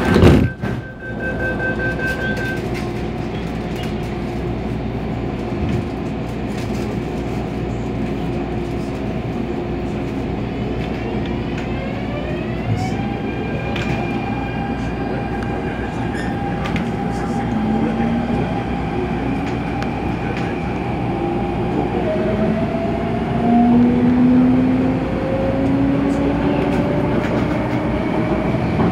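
MTR A-Train electric multiple unit running, heard from inside the car: steady rumble of wheels on the track with traction-motor whine whose tones step up in pitch as the train gathers speed. A loud knock comes right at the start.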